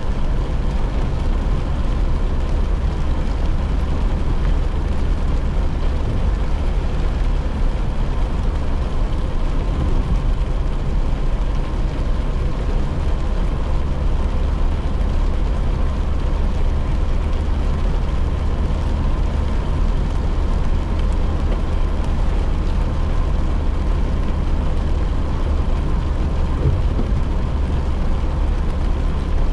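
Car cabin sound while driving in rain: a steady deep rumble of engine and tyres on wet road, with rain on the car's body and windows, and a faint steady hum.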